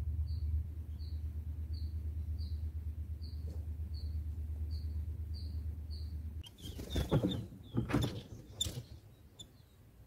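Short high bird chirps repeating about twice a second over a low steady hum, which stop about six seconds in. Then a few seconds of loud rustling and bumps as the white-eye shifts about on its grass nest among the leaves, with a few more chirps.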